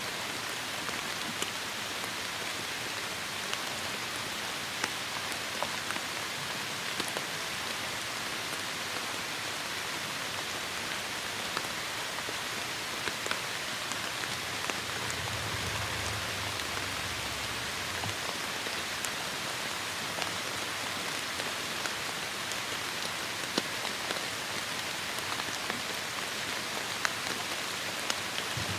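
Heavy rain falling steadily, with scattered sharp ticks of single drops hitting close by, and a brief low rumble about halfway through.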